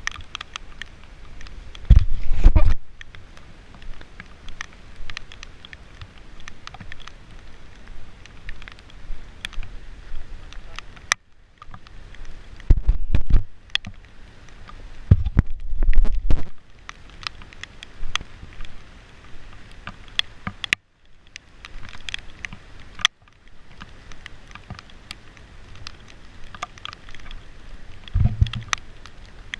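Raindrops pattering on the camera as many small crackling taps, with a few short, loud low thuds.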